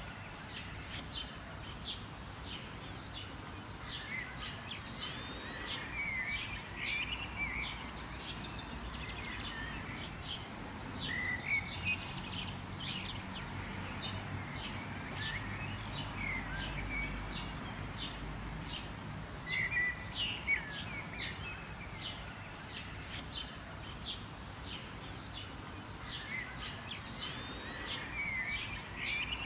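Several songbirds chirping and warbling, short calls coming thick and fast throughout, over a steady low background rumble.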